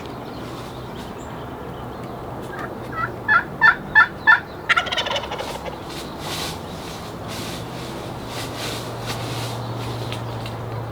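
A run of about five short, loud yelping notes, then a wild turkey gobble, a quick rattling call that falls in pitch.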